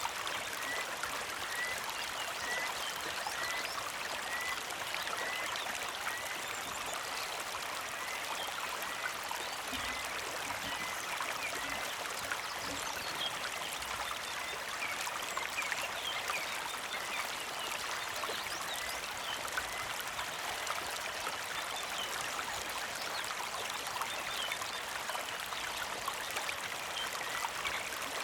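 Small mountain creek flowing steadily, a constant trickling rush of water, with birds chirping over it. One bird repeats a short chirp about twice a second for the first several seconds, and other brief chirps come and go.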